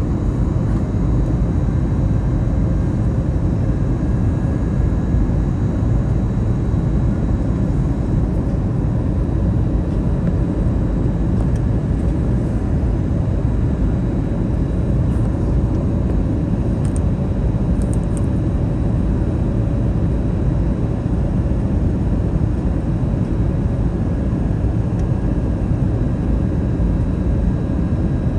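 Steady cabin noise inside an Airbus A321neo, a low rumble of airflow and Pratt & Whitney PW1100G geared-turbofan engines with a few faint steady tones over it.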